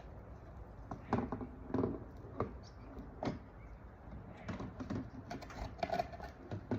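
Hard plastic clicks and knocks as a Ryobi 36-volt lithium battery is handled and fitted into the lawnmower's battery compartment: about half a dozen separate knocks spread over several seconds.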